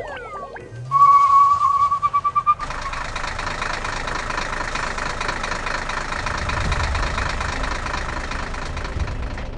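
Cartoon sound effects: a steady high tone for about a second and a half, then a vehicle engine running steadily, its low rumble growing stronger toward the middle.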